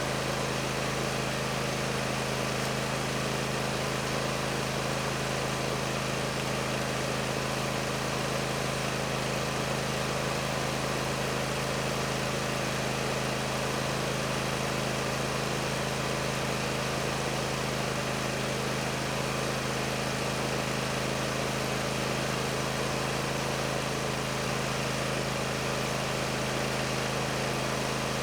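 Bad Boy Maverick zero-turn mower's engine running at a steady, unchanging speed.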